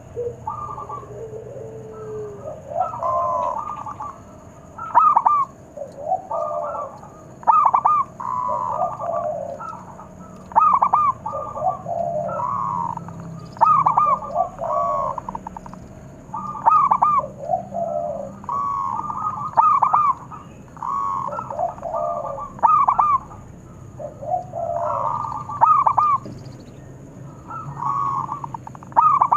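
Zebra doves (perkutut) cooing: phrases of quick, stuttering coos repeated every two to three seconds, at times overlapping.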